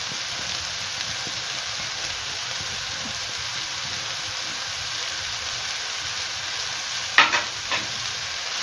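Diced vegetables and chicken sizzling steadily as they fry in a frying pan, with a few short sharp knocks near the end.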